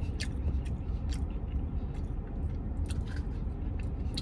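A man chewing a mouthful of breaded plant-based barbecue chicken finger close to the microphone: irregular wet mouth clicks and smacks over a low steady hum. Near the end comes a sharper smack as he licks sauce off his fingers.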